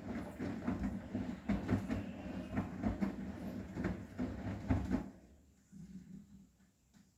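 Arçelik 9120M front-loading washing machine tumbling a load of cushions in a cotton 30°C wash: a rumbling drum with repeated dull thumps, two or three a second. The drum stops about five seconds in and the sound dies away.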